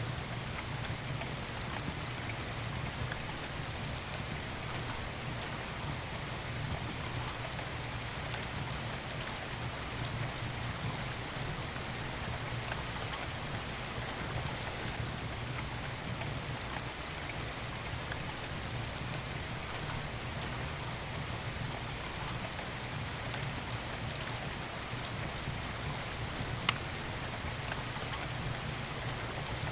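Steady rain falling, an even hiss with a low rumble beneath it. A sharp pop from a wood fire comes about a second in and another, louder one near the end.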